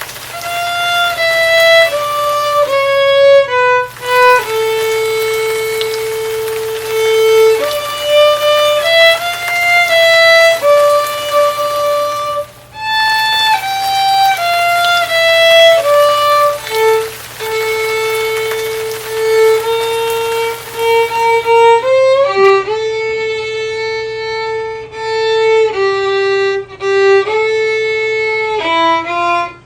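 Background music: a slow melody played one sustained note at a time on a solo violin.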